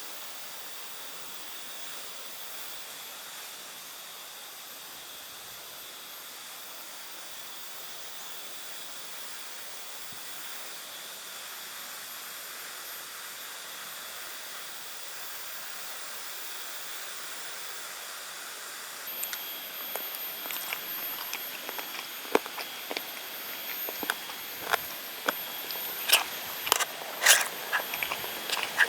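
Steady hiss of outdoor forest ambience. About two-thirds through the sound changes: faint steady high tones come in, then a run of sharp clicks and taps that grows denser toward the end.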